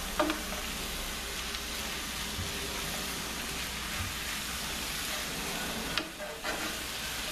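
Fresh spinach sizzling as it wilts in a hot skillet, tossed and stirred with a wooden spatula: a steady frying hiss with the rustle of stirring. A short knock just after the start and a louder one about six seconds in.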